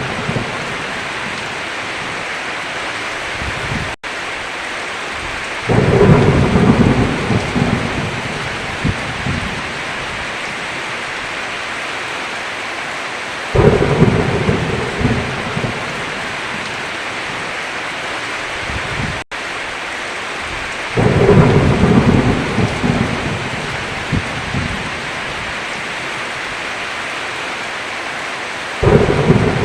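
Steady heavy rain with thunder rumbling four times, about every seven to eight seconds, each roll fading over a few seconds. The sound cuts out for a split second twice.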